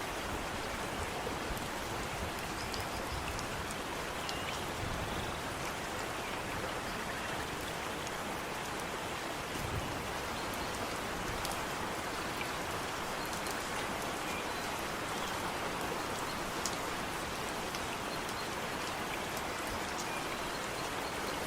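Steady rainfall, with a constant hiss of rain and scattered drops landing.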